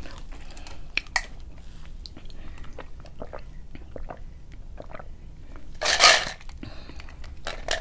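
Close-miked chewing and biting of McDonald's fries, with small wet mouth clicks, and one louder, short rushing mouth sound about six seconds in.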